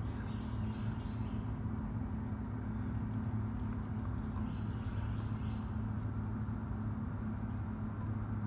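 A steady low hum, with short faint bird chirps scattered over it.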